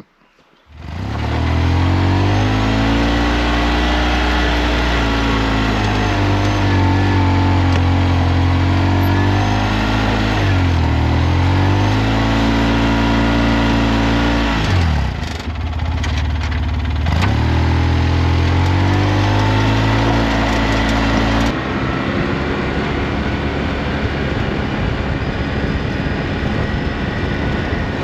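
Polaris Ranger XP 700 side-by-side's engine running while driving, starting abruptly about a second in. The revs dip briefly twice, around the middle. Near the end the sound changes suddenly to a rougher, noisier drive.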